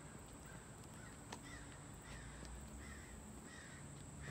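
A bird calling faintly outdoors: a run of short, repeated calls starting about a second and a half in, with a single sharp click just before, over a low steady background rumble.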